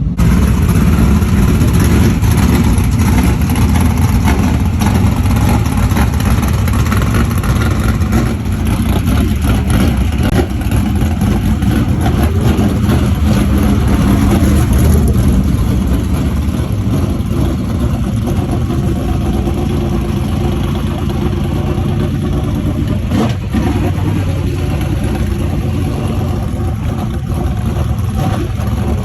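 Dirt-track modified race car engines running loudly and continuously.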